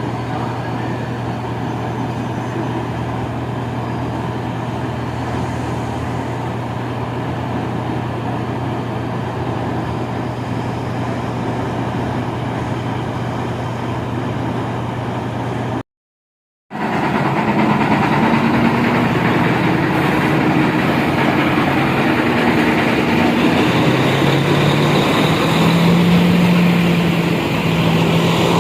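Diesel multiple unit's engine running with a steady low hum. After a brief cut about sixteen seconds in, the sound comes back louder, and the engine note rises in several steps.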